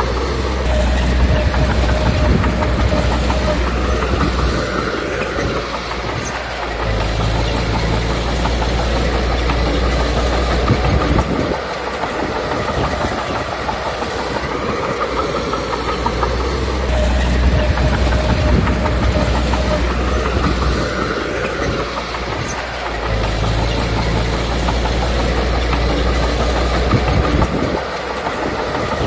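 Komatsu D21P crawler bulldozer's diesel engine running under varying load, with steel tracks clattering. The engine swells and eases again roughly every ten seconds.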